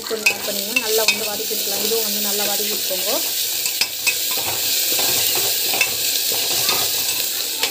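Tempering and vegetables sizzling in hot oil in a pressure cooker base while being stirred. A utensil clicks against the metal pan now and then.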